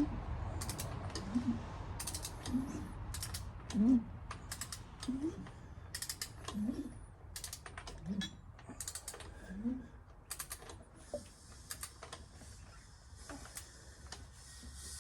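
A ratchet wrench clicking in repeated swings as the engine's crankshaft is turned over by hand for a compression test. Each swing comes with a short rising squeak, about one a second, and the swings ease off after about ten seconds.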